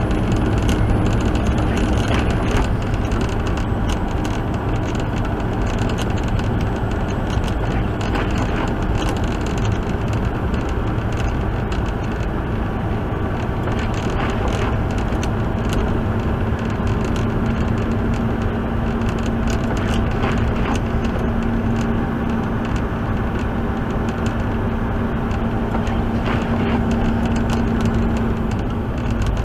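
Truck engine and road noise inside the cab while driving, a steady low rumble. A steady humming note joins about halfway through and stops just before the end.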